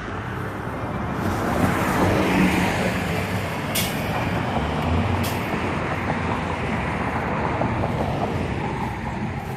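Motor vehicle engine running with traffic noise, swelling about two seconds in, with two short hisses about four and five seconds in.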